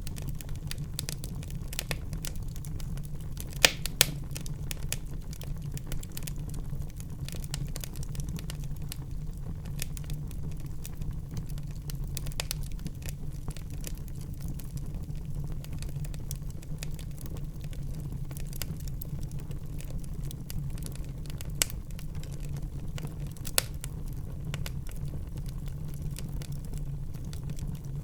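Wood fire burning in a fireplace: a steady low rumble of flames under constant fine crackling, with a few louder sharp pops about 4 seconds in and again near 21 and 23 seconds.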